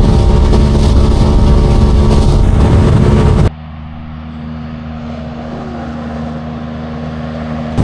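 Side-by-side UTV engine running at a steady speed with loud noise over it; about three and a half seconds in it cuts abruptly to a quieter, steady engine drone.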